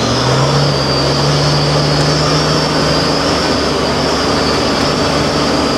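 Heavy diesel engine running steadily at a constant pitch, with a steady high whine above it.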